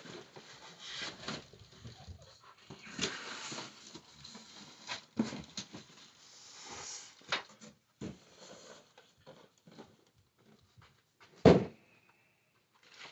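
Packaging being handled during an unboxing: scattered rustles and knocks, with one loud thump about eleven and a half seconds in.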